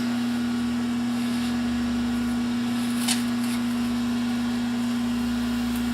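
Metal lathe running steadily through a facing cut, with a constant hum-like tone from the machine. A brief faint tick about three seconds in.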